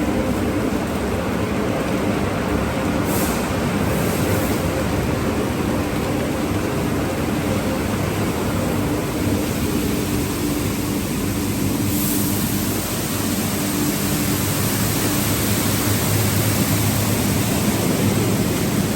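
Automatic car wash tunnel equipment running: a steady rushing noise with a low machine hum, the hiss growing stronger about two-thirds of the way through.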